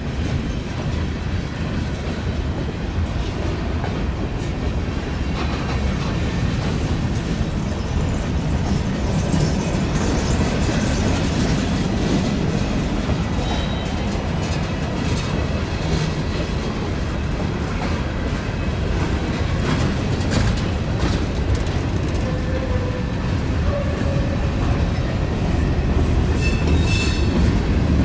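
A train rolling past on the rails: a steady rumble of wheels and cars that keeps going without a break, with a couple of short, faint high squeals from the wheels about halfway and near the end.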